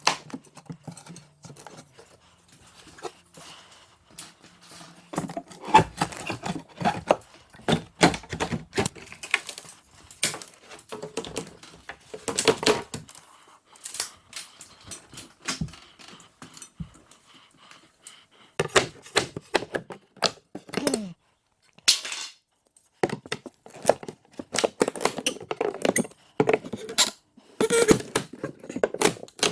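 Irregular clicks, knocks and rattles of tools and lumber being handled during carpentry work, coming in clusters, with two brief dead-silent gaps partway through.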